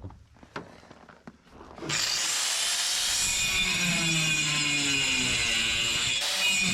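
A few light handling clicks, then about two seconds in a power tool starts on wood and runs steadily under load, its motor pitch slowly sagging and recovering, with a brief dip near the end.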